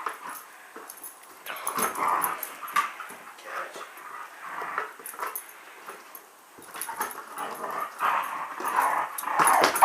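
A dog whimpering and scuffling while playing with a basketball, with irregular knocks and rustles throughout.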